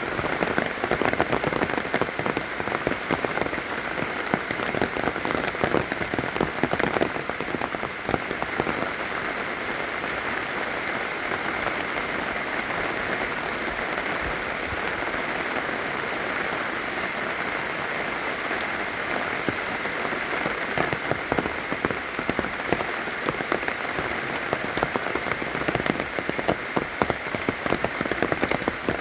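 Steady rain falling: a dense, even patter of drops, slightly heavier near the start and the end.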